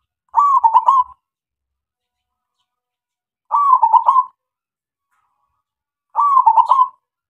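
Male zebra dove (perkutut) singing: three short cooing phrases of several quick notes each, about three seconds apart.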